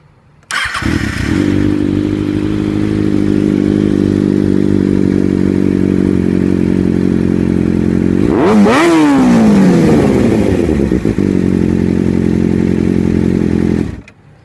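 A 2011 Kawasaki Ninja ZX-6R's inline-four engine running through an M4 GP aftermarket exhaust. It idles steadily, with one quick rev about eight seconds in that climbs and then falls back to idle. The sound begins suddenly shortly after the start and cuts off near the end.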